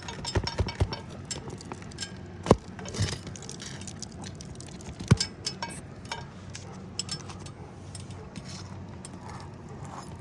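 Metal roof snake worked under asphalt shingles to pull a roofing nail: light metallic clinks and scraping, with two sharp knocks about two and a half and five seconds in.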